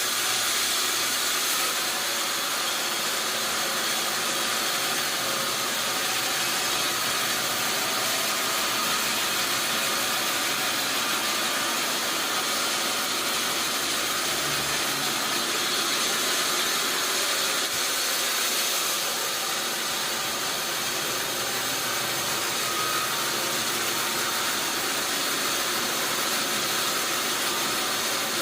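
Sawmill machinery running steadily: a continuous mechanical noise that holds at an even level throughout.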